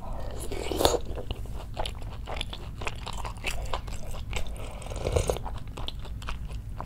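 Close-miked chewing of a mouthful of rice and spicy chicken stew, with many small wet mouth clicks. The wooden spoon goes back to the lips about four seconds in to sip the stew.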